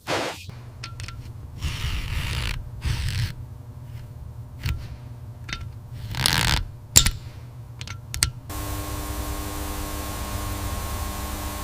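Tool work: scraping and rubbing strokes with a few sharp clicks, then a steady hum from about eight and a half seconds in.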